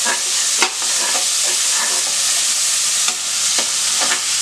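Chopped tomatoes, shallots and spices sizzling in hot ghee in an aluminium pressure cooker as a slotted steel ladle stirs them, with a few short scrapes of the ladle against the pan.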